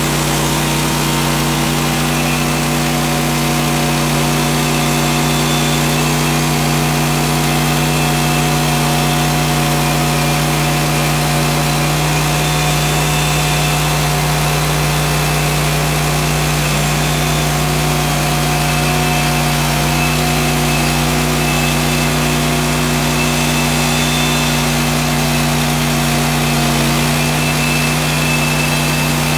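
Woodland Mills HM130 portable sawmill's petrol engine running at a steady pitch, loud and even throughout.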